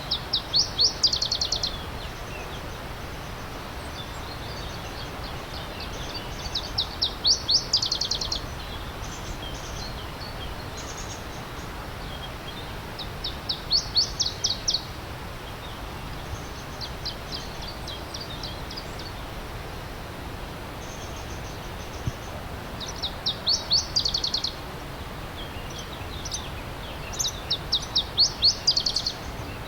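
A songbird repeating a short, fast song of rapid high downward-sweeping notes, five loud phrases spaced about six seconds apart with fainter ones between, over the steady rushing of a stream.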